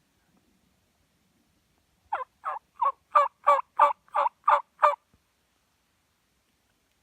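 A run of nine turkey yelps, about three a second, the first three softer and the rest louder: hen-style yelping typical of aggressive calling to bring in a tom.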